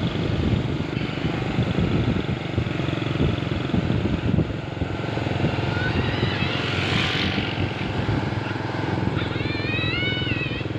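Truck engine running steadily. A rushing hiss swells and fades about six to seven seconds in, and a voice calls out briefly near the end.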